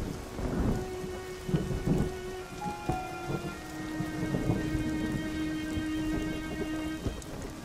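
Steady rain with several low rumbles of thunder, under held tones of background music.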